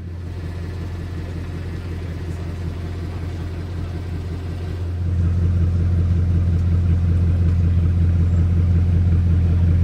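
Bugatti Chiron's quad-turbo W16 engine running steadily as a deep, even drone, stepping up in loudness about halfway through and holding there.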